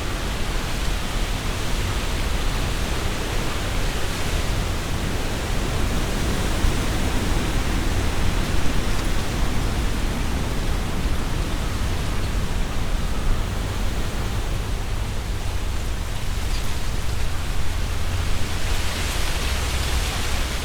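Strong wind blowing through trees, rustling the leaves, with a low rumble underneath. A gust swells near the end.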